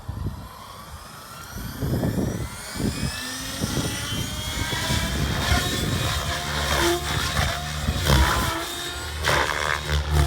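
Gaui X7 radio-controlled helicopter spooling up, its motor and rotor whine rising steadily in pitch over the first few seconds, then running at flying speed. Gusts of wind buffet the microphone.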